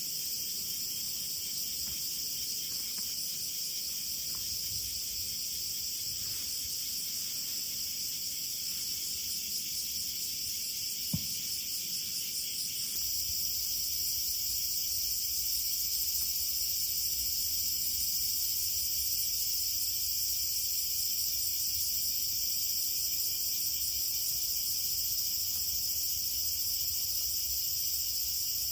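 Steady, high-pitched chorus of crickets or other insects, with a single click about eleven seconds in and a low background rumble that gets louder a couple of seconds later.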